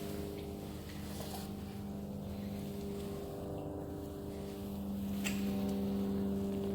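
A boat motor running at a steady pitch, with an even hum that grows a little louder about five seconds in.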